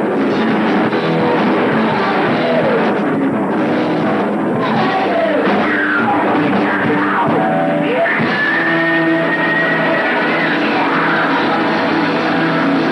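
A heavy metal band playing together in a rehearsal room: distorted electric guitar over a drum kit, captured on a lo-fi bootleg recording. A lead part slides up and down in pitch, then holds one long high note about eight seconds in.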